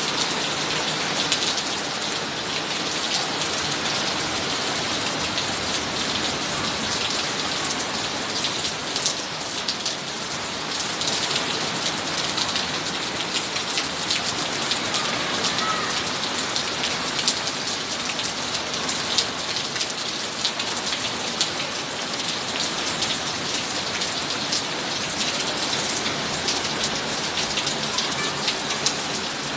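Rain falling steadily: a dense hiss of drops with many sharp little splashes.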